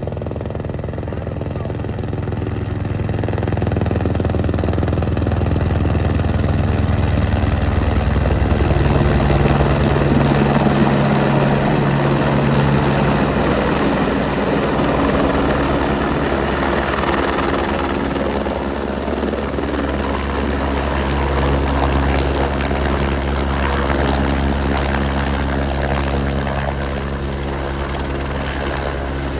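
Helicopter running: a steady drone of turbine and rotor, several pitches humming together, growing louder over the first few seconds and then holding steady.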